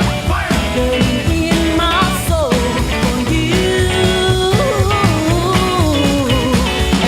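Rock band music with drums and electric guitar, its pitched lines bending and sliding.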